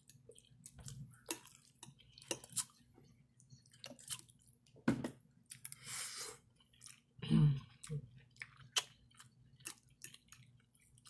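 Close-up chewing and wet mouth sounds of a person eating spaghetti with meat sauce: soft smacks and squishy clicks, with a longer slurp as a forkful of noodles goes in about six seconds in.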